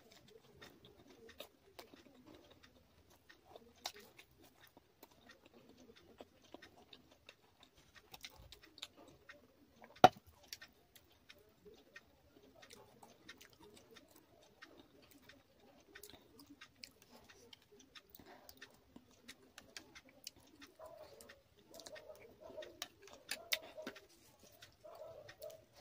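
Close-miked chewing of puri and potato, pea and cauliflower curry, with one sharp click about ten seconds in. Near the end come short, repeated sounds held on one low pitch.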